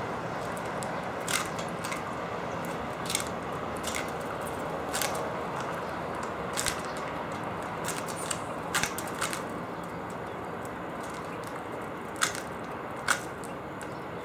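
Small seed-eating birds cracking seeds and pecking at a feeder: sharp single clicks and cracks every second or two, irregularly spaced, over a steady hum of distant traffic.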